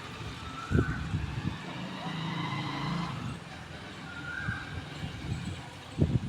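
Outdoor ambience: a low rumble with heavy thumps about a second in and near the end. A distant bird gives a short rising call twice, a few seconds apart.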